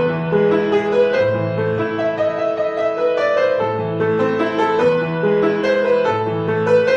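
Piano playing a steady melody over sustained bass notes that change about once a second.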